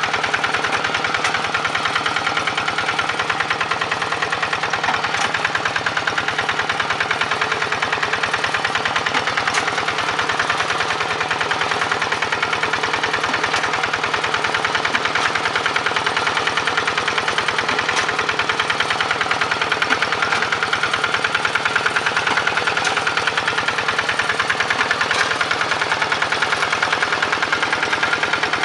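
Two-wheel hand tractor's single-cylinder diesel engine running steadily with a rapid, even beat.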